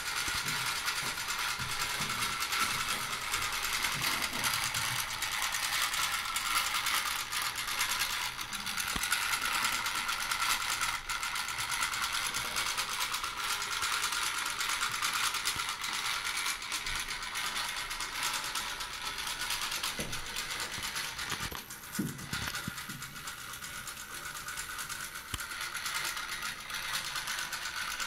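Clockwork spring motor of a Bassett-Lowke toy cargo ship running, a steady mechanical whirr of its gears, a little quieter for the last few seconds.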